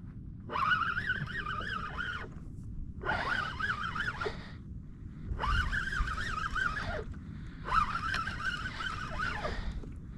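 Penn Battle 3 spinning reel being cranked in five short bursts, each about a second and a half, its gears giving a wavering whine that stops between bursts as a hooked fish is brought up from deep water.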